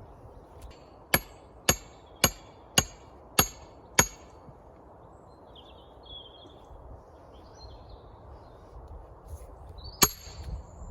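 Sledgehammer striking a steel wedge, driving it into a large, moist firewood block to split it: six sharp, ringing metal-on-metal blows about two a second, then a single blow several seconds later.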